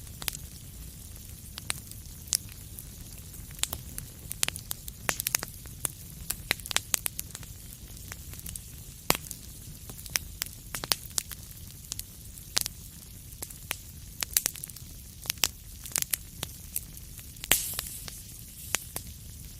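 Fireplace fire crackling, with irregular sharp pops and snaps over a steady low rumble. A short hiss flares near the end.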